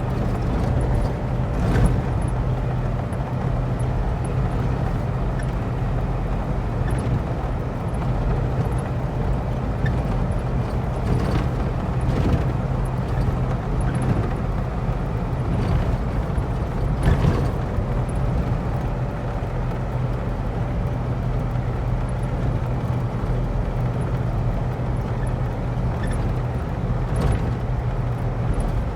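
Car driving at road speed, heard from inside the cabin: steady engine hum and tyre and road noise, with a few brief knocks scattered through.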